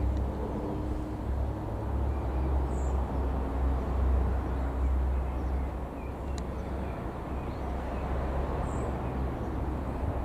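Steady low rumble of distant aircraft engines, with a few faint bird chirps over it and a single small click about six seconds in.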